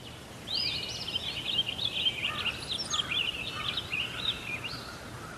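Birds singing: a fast, continuous run of varied chirps and whistles over a steady low hum and hiss.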